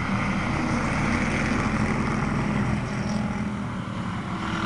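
Pro street car engine running steadily.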